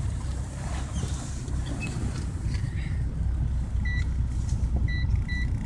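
A car running with a steady low rumble of engine and road noise. Three short, high electronic beeps come about four and five seconds in.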